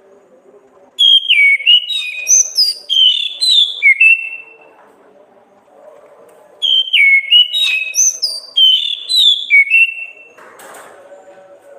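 Orange-headed thrush (anis kembang) singing two loud phrases of clear whistled notes that slide up and down. The second phrase starts about halfway through.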